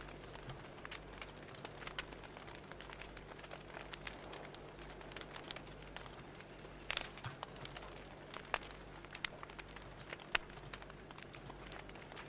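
Wood fire crackling: irregular sharp pops and snaps over a steady low hiss, with a cluster of louder pops about seven seconds in.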